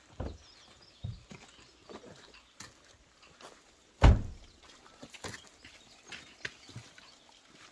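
A series of irregular thumps and knocks, the loudest and heaviest about four seconds in.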